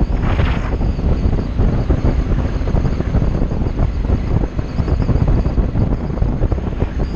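Heavy wind buffeting on the microphone of a motorcycle riding at speed, with the engine running underneath, most likely a Kawasaki Ninja 300's parallel-twin. A brief hiss comes just after the start.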